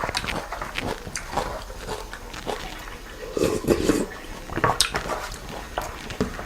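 Close-miked eating sounds of noodles and soup: wet chewing and slurping, with many short clicks and smacks and a denser patch of wet sound a little past the middle.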